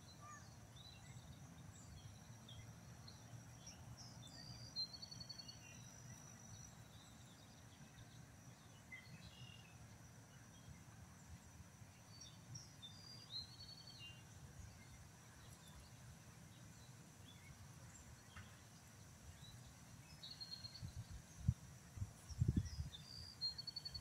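Quiet outdoor pond ambience: a faint low rumble of air on the microphone, a small bird giving short chirpy trills four or five times, and a thin steady high insect-like tone that fades about seven seconds in. Near the end a few low thumps hit the microphone.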